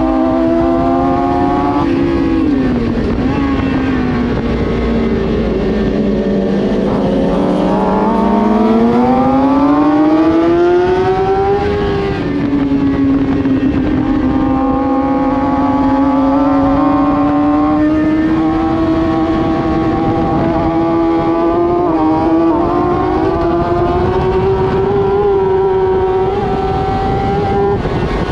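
Racing sportbike engine at high revs. Its pitch sags for several seconds, then climbs hard under acceleration. About twelve seconds in it drops sharply, as on an upshift, then climbs steadily again.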